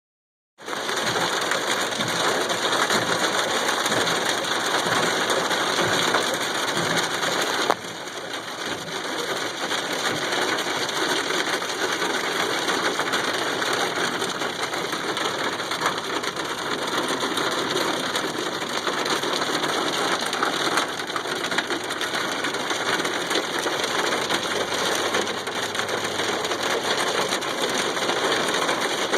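Driving in a snow storm: wintry precipitation pelts the car, a dense steady hiss made of many small ticks, over the car's running. The level drops a little about eight seconds in.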